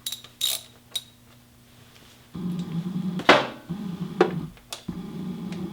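Metal tool clinks and taps as an Allen driver is seated in the motorcycle gearbox fill plug. About two and a half seconds in, a low steady hum starts, and two sharp knocks sound over it.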